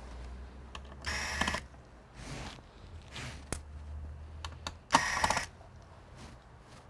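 Two short bursts of rapid ratcheting clicks with single sharp clicks between them, from hand tools and plastic parts as an all-in-one computer is taken apart.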